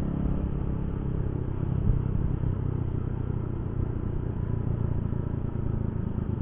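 Yamaha Jupiter Z1 underbone motorcycle's single-cylinder four-stroke engine running at a steady cruise, mixed with road and traffic noise, heard through a helmet intercom microphone.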